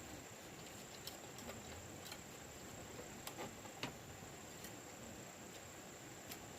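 Faint steady high-pitched insect drone, with scattered light clicks and ticks.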